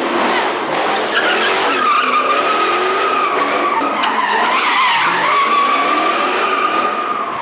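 Car tires squealing in one long, wavering screech as a car spins its wheels, with the engine running hard underneath. The pitch dips briefly near the middle, then steadies again.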